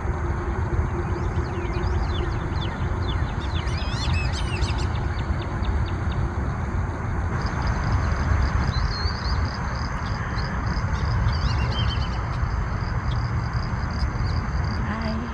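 Small birds chirping in quick, rising and falling calls, in two spells, over a loud steady low rumble.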